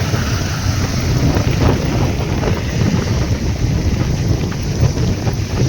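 Heavy vehicle engine, most likely a sugarcane hauler truck's diesel, running with a steady low rumble, with wind buffeting the microphone.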